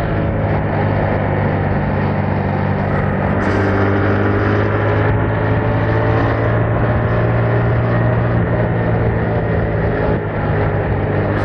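Yamaha MT-07's parallel-twin engine running through its stock exhaust at a steady, near-constant speed while riding, with a small change in the engine note about three and a half seconds in.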